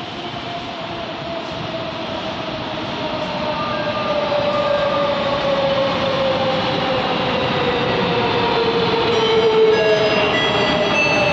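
A train drawing into the station, growing louder, with a whine that slowly falls in pitch; short high squeals join in near the end.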